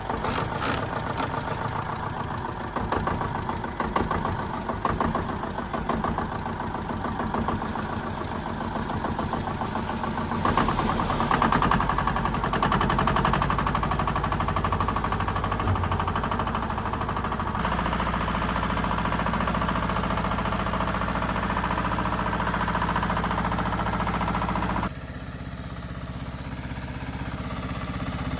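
Diesel engine of a heavy earth-moving machine running, its sound shifting abruptly a few times.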